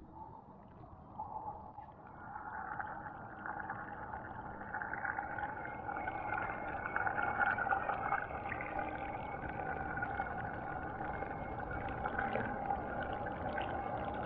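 Steady motor hum heard underwater, with a few held tones over a muffled wash, growing louder over the first two seconds and then holding.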